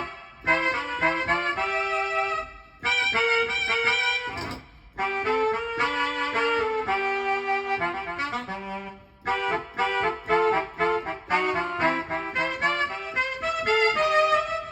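Norteño-style saxophone sample played on a Medeli AKX10 keyboard: a melody in short phrases with a harmony line moving beneath it, and brief pauses between the phrases.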